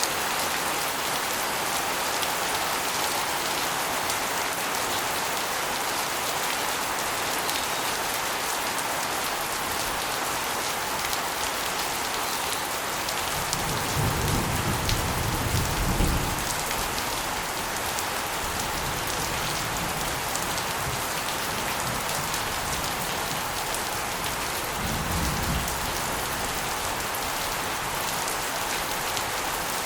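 Rain water spilling off an asbestos roof and splashing onto a concrete floor and walls, a steady dense patter. A low rumble swells in about halfway through for a few seconds, and again briefly near the end.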